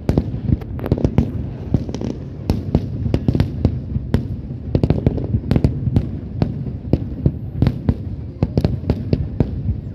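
Fireworks display: aerial shells bursting in a dense barrage, sharp bangs several times a second over a continuous low rumble of booms.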